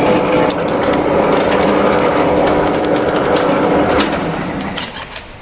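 Metal lathe running under power, its motor and gearbox humming steadily with scattered sharp ticks of metal being cut. About four seconds in, the machine slows and winds down.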